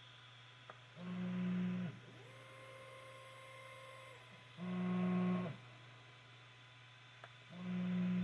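3D printer stepper motors whining in three short bursts of movement, each about a second long, with a quieter, higher whine between the first two. A faint click comes just before the first and last bursts, over a steady low hum.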